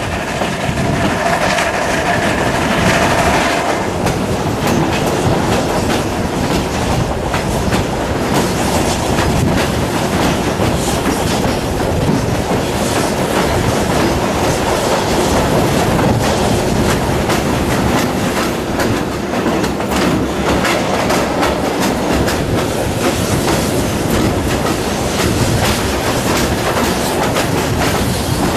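Train running at speed, heard from an open carriage window: the wheels clatter over rail joints in a rapid, irregular clickety-clack over a steady rumble.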